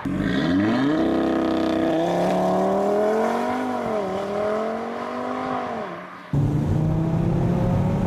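A 2015 Audi RS3's 2.5-litre turbocharged five-cylinder engine accelerating hard as the car pulls away, its note climbing in several surges as it works up through the gears and fading slightly with distance. About six seconds in it cuts abruptly to the steadier engine drone and road noise heard inside the cabin.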